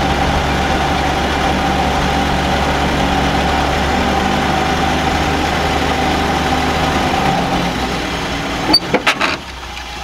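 Willys Jeep engine running loud and steady, then dying away near the end, followed by a few quick knocks and clicks. The engine is not fully up to power, which the owners put down to timing or something else.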